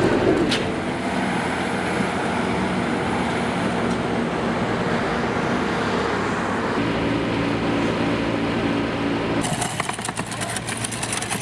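Street traffic: a motor vehicle's engine running steadily, its hum changing pitch about seven seconds in, with a rapid rattling clatter near the end.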